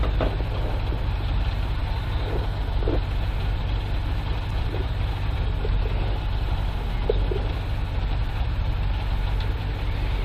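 Competition car's engine idling steadily in neutral, heard from inside the cabin as an even low rumble.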